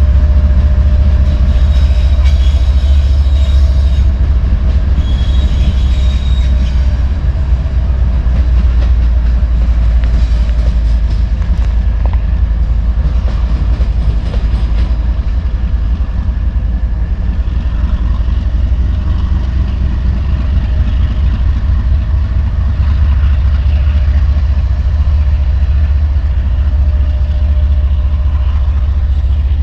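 Empty coal train hopper cars rolling past, a loud steady low rumble, with brief high wheel squeals about two and five seconds in.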